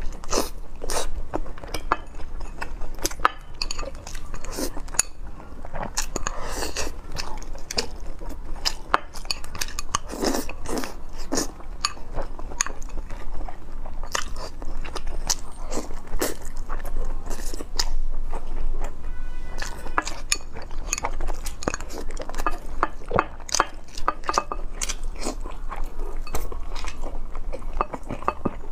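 A person chewing and biting pieces of fatty braised meat close to the microphone: wet, sticky mouth sounds with many quick irregular smacks and clicks throughout.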